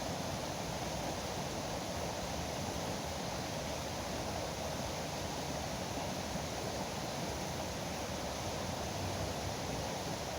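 Foaming river water rushing in a steady, even noise that doesn't change.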